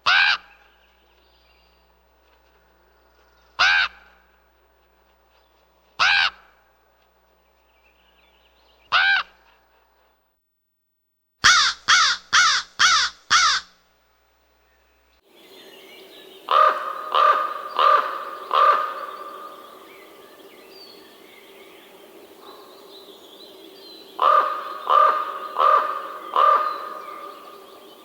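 Ravens calling: single harsh calls a few seconds apart, then a quick run of five calls. After a switch to another recording with a steady background noise, two runs of four calls follow.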